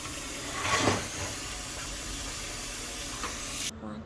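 Tap water running steadily into a sink while chicken leg pieces are washed, with a brief louder splash about a second in. The water noise cuts off suddenly near the end.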